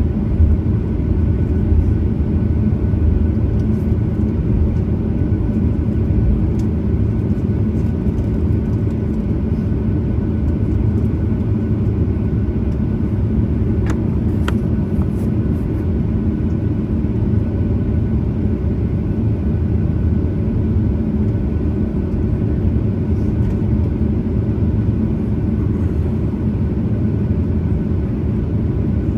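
Steady low cabin rumble of a Boeing 737-900ER with its CFM56-7B engines running at low power, heard from a window seat, with a faint whine above the drone.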